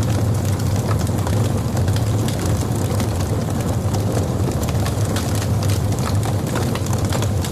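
Logs burning in a fireplace: a steady low roar of flame with frequent small crackles and pops.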